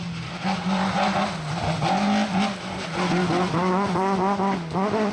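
Rally car engine running at high revs, its pitch rising and falling again and again as it revs and shifts, with tyre noise on the stage surface.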